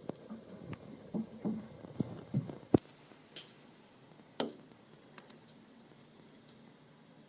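A run of knocks, clicks and rustles over the first three seconds, the sharpest click near the end of that run, then one more click about four and a half seconds in.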